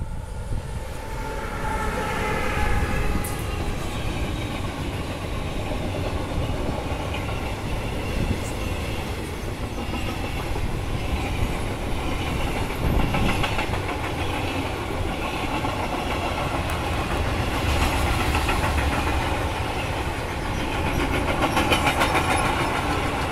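Freight train passing close by: an electric locomotive goes by with a whine of several pitches in the first few seconds, followed by a long string of loaded freight wagons with a steady rumble of wheels on rail and a rhythmic clatter of wheels over rail joints, loudest near the end.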